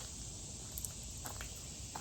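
Faint outdoor background: a steady hiss with a few light clicks.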